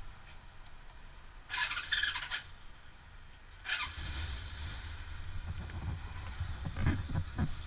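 Motorcycle being started: two short high-pitched starter whirs, then the engine catches about four seconds in and runs with a low steady idle, with a few quick blips of the throttle near the end.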